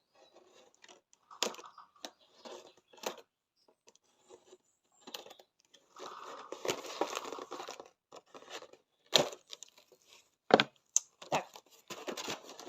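Plastic packaging rustling and crinkling as a boxed clipper kit is unpacked, with scattered clicks and knocks of parts being handled. The longest stretch of rustling comes about six seconds in.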